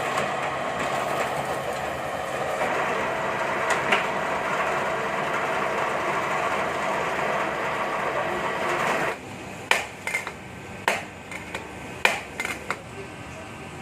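A power tool running steadily for about nine seconds, then stopping abruptly, followed by several sharp knocks.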